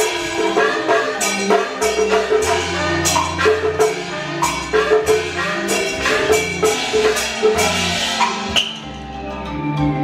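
Taiwanese opera (gezaixi) music: an instrumental ensemble playing a melody over a bass line, with sharp percussion strikes keeping a steady beat.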